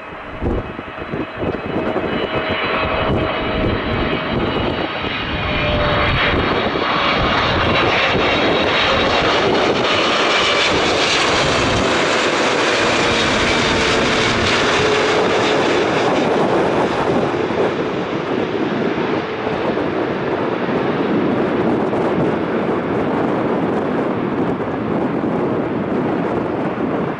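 Fixed-wing aircraft's engines roaring as it passes close by, with high whining tones over the roar. The sound builds over the first several seconds, is loudest in the middle, and a tone falls in pitch as it goes by, then it eases slightly.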